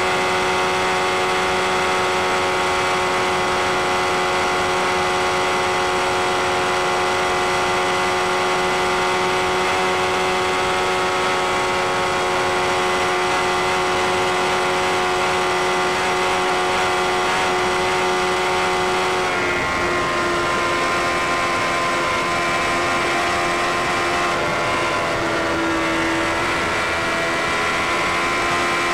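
Sport motorcycle engine running at steady high revs at speed, with wind and road noise. About two-thirds of the way through, its pitch drops slightly and begins to waver as the throttle changes.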